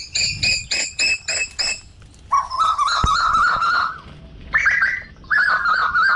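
Birds calling: a fast run of sharp repeated chirps, about five a second, then, after a short gap, two longer warbling trills lower in pitch.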